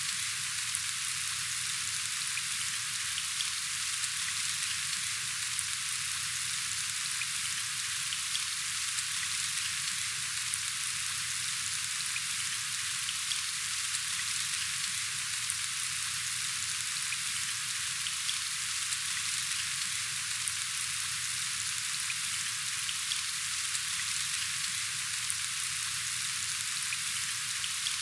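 Steady rain falling: an even hiss with scattered fine drop ticks.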